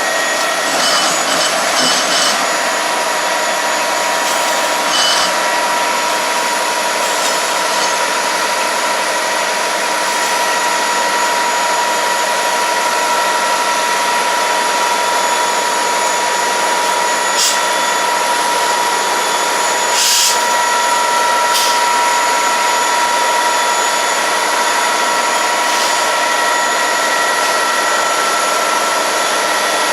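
Diesel freight locomotives running under load: a steady engine noise with a few steady high whines and a handful of sharp clicks. The locomotives are losing grip, with wheel slip that is put down to the rain, maybe.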